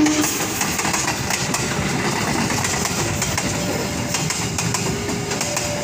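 A CC 201 diesel-electric locomotive (GE U18C) passing close by with its engine running, followed by container flat wagons rolling past: a steady rumble with a rapid, uneven clatter of wheels on the rails.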